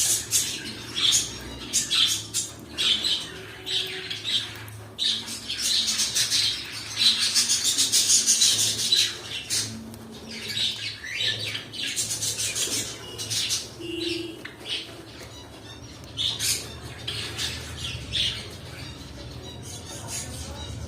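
Cockatiels calling with many short, sharp squawks and chirps, busiest and loudest about seven to nine seconds in.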